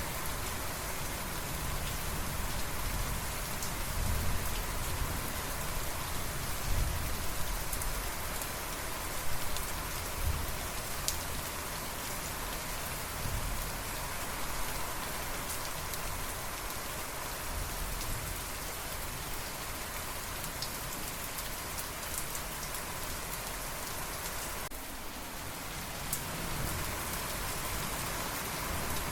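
Steady rain falling with an even hiss, and a low rumble coming and going underneath.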